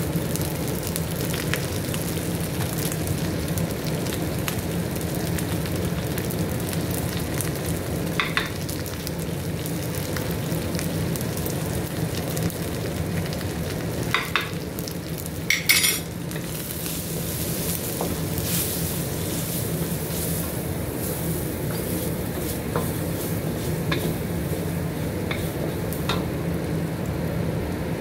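Spices sizzling in hot oil in a wok as they are stir-fried with a wooden spatula. A few sharp clinks of utensils against the pan come about halfway through, the loudest at about sixteen seconds in.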